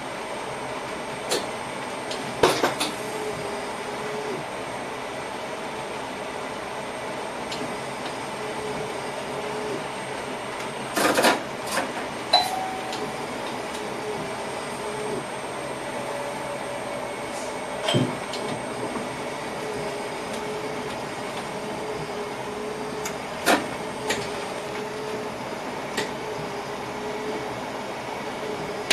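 Passenger train running along the track, heard from inside the driver's cab: a steady hum with a few held tones, broken by a handful of sharp clicks and knocks at irregular intervals.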